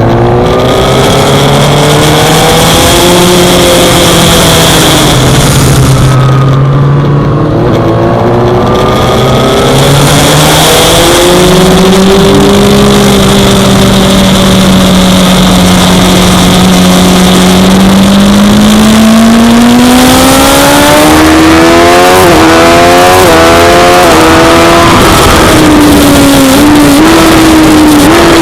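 Suzuki GSX-R600's inline-four engine at race speed on a circuit. It rises and falls in pitch through long pulls, with a run of quick stepped gear changes near the end.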